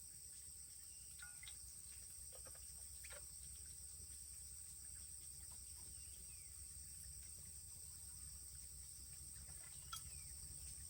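Faint outdoor ambience: a steady high-pitched insect drone, like crickets, over a low rumble, with a few faint scattered chirps and a small click near the end.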